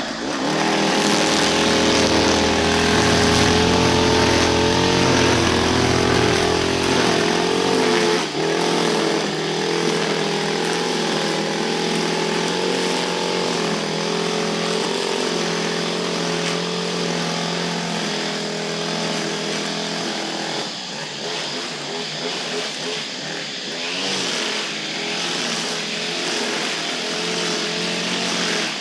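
Small two-stroke Stihl garden-tool engine running at high revs, its pitch wavering slightly as it works, with a brief dip about eight seconds in.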